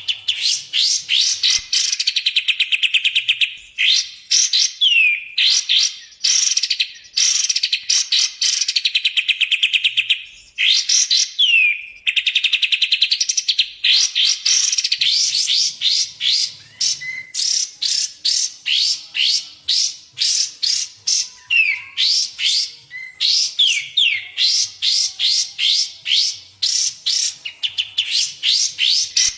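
Recorded song of kapas tembak and cucak jenggot songbirds: fast trilled and chattering phrases of rapidly repeated notes, with a few sharp falling notes, running almost without pause.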